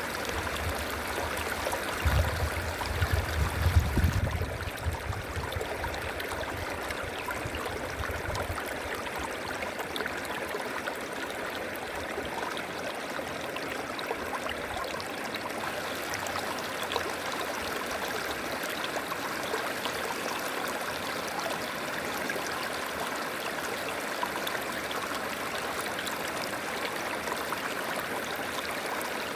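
River water flowing and rushing steadily over rocks. A low rumble rises underneath from about two seconds in and fades by about eight seconds.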